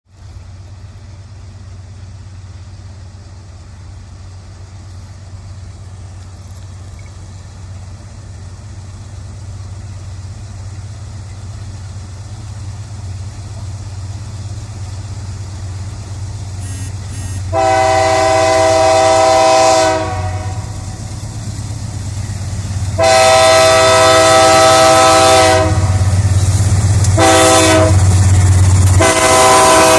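Approaching diesel train locomotive, its engine rumble growing steadily louder, then its multi-tone air horn sounding two long blasts, a short one, and a long one near the end: the pattern used as a level-crossing warning.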